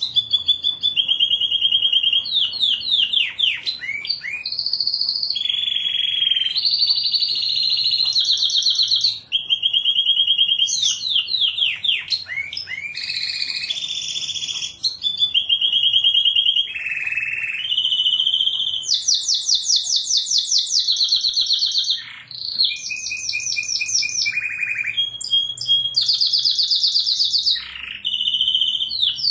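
Domestic canary singing continuously: high-pitched rolling trills, each a rapid run of one note repeated for a second or two before switching to a different trill, with a few brief breaks.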